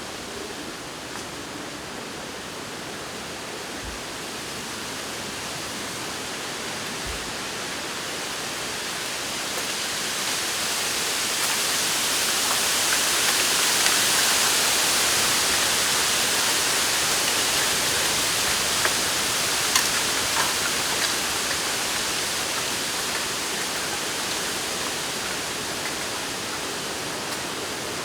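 Wind blowing through a bamboo grove, the leaves rustling in a steady hiss that swells into a stronger gust about halfway through and then eases off.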